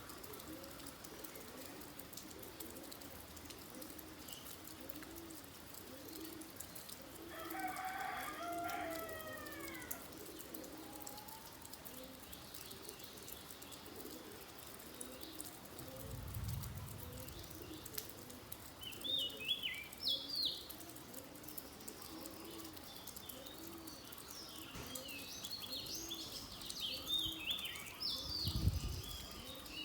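Steady rain with birds calling: soft low calls repeat throughout, a rooster crows once about eight seconds in, and small birds chirp in quick bursts in the second half. Two brief low rumbles come through, around the middle and near the end.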